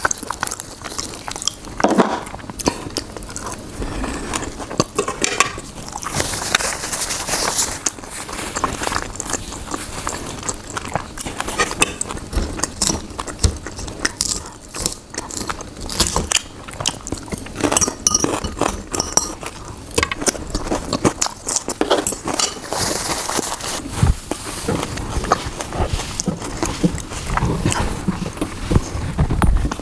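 A person eating, biting and chewing food in a long run of many short clicks and crunchy bursts.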